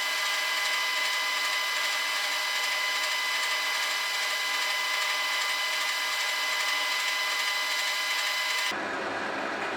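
Metal lathe running steadily with a high whine. About nine seconds in, the sound cuts abruptly to a different, rougher steady machine noise.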